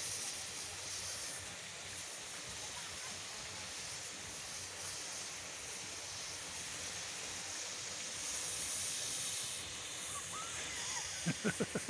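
Steady outdoor hiss of background noise, with faint children's voices calling out near the end.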